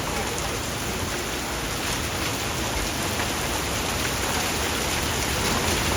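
Heavy rain falling in a steady, even hiss, with scattered small drop taps.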